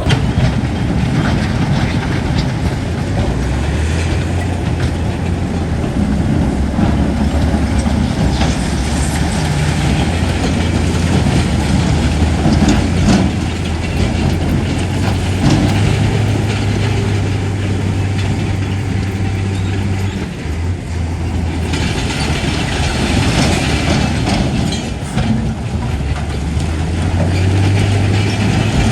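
Heavy diesel engine of a crawler bulldozer working, loud and continuous, its note stepping up and down several times as the throttle and load change, with scattered clanks and knocks over it.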